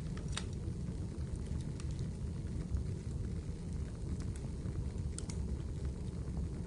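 Wood fire burning in a fireplace: a steady low rumble of the flames with scattered crackles and pops, a sharp pop about half a second in and a quick pair near the end.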